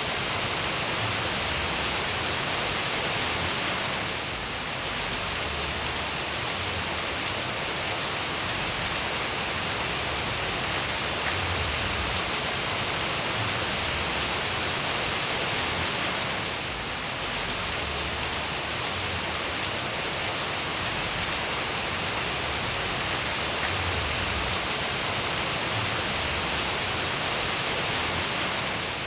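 Steady rain falling, a dense even hiss, dipping slightly for a moment about four seconds in and again past sixteen seconds.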